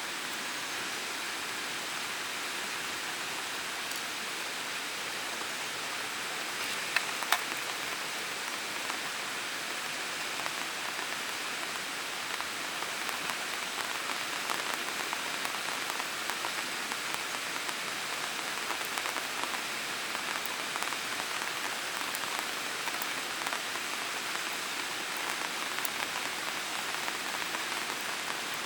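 Steady rain, the pattering growing denser from about twelve seconds in, with two sharp clicks about seven seconds in.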